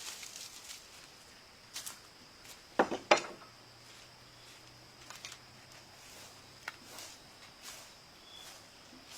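Scattered light rustles and clicks, with two sharp knocks in quick succession about three seconds in.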